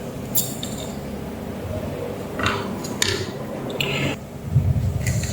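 Small hard objects, such as tools or parts, clinking and tapping a few times on a work surface, over a steady low hum.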